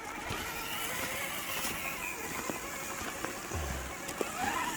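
Electric drivetrain of an Axial scale RC rock crawler whining as it is driven out of a tight spot, the pitch wavering with the throttle, with a few light clicks over a steady background hiss.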